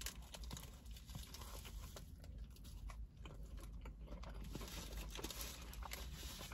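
Faint biting and chewing of a cheese curd burger, many small wet clicks and crunches, with soft crinkling of its paper wrapper.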